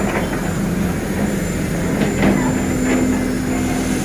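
Heavy machinery running steadily with a low hum, with a few short sharp knocks or calls over it: the start, about two seconds in and about three seconds in.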